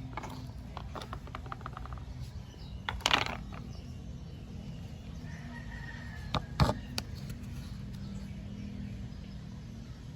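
Scattered handling noises over a steady low hum: a quick run of ticks about a second in, a short rustling scrape about three seconds in, and two sharp knocks a little past six seconds.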